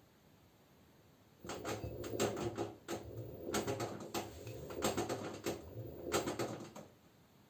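LG front-loading washing machine's drum turning briefly near the end of its spin stage, with the laundry tumbling inside and clicking and knocking in several surges over about five seconds before stopping.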